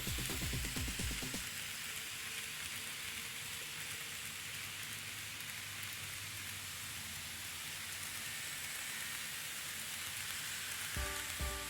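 A steady, even hiss, like rain. Background music with a beat plays in the first second and comes back near the end.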